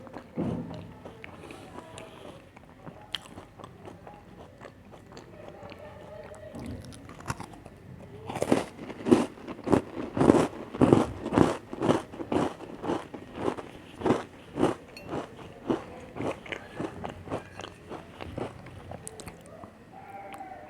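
Chocolate cookies being bitten and chewed close to the microphone. Soft mouth clicks come first, then from about eight seconds in a run of loud crunching chews, about two a second, which tails off near the end.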